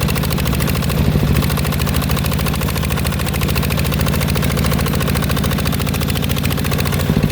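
Mecatech 14 hp tractor engine running steadily in a fast, even chugging rhythm, the pulses growing louder and more distinct near the end.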